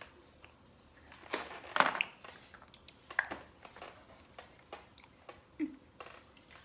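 A cookie being bitten and chewed close to the microphone: irregular crunches, the loudest cluster about one and a half to two seconds in, then scattered smaller crunches, with a brief low "mm" a little after five and a half seconds.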